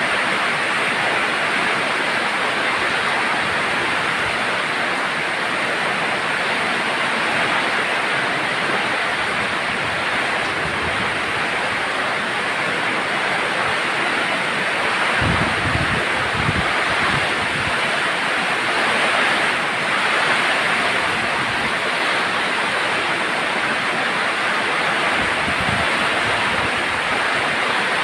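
Steady rain falling in wind, an even rushing hiss. A few short low rumbles come about halfway through.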